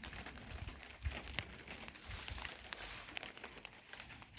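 Light rain falling, with scattered drops ticking close by over a faint low rumble.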